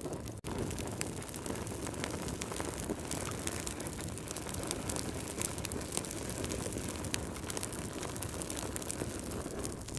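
Wood fire burning in a fireplace: a steady low rumble with frequent sharp crackles and pops, cutting out for an instant about half a second in.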